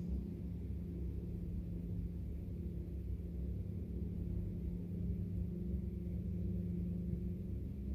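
Steady low drone with a constant pitch and an unbroken rumble beneath it.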